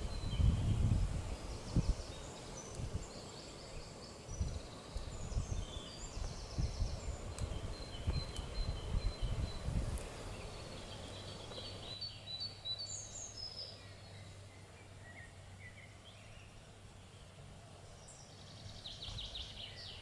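Small birds singing and calling, short chirps and trills scattered throughout. Low gusts of wind buffet the microphone in the first half, giving way to a faint steady low hum.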